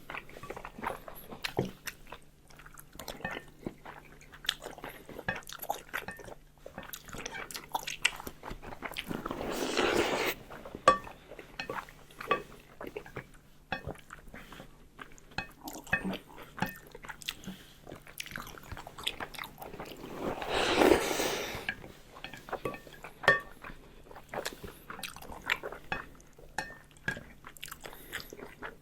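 Close-up eating sounds: chewing and biting with many small mouth clicks. Two longer breathy swells come about ten and twenty seconds in.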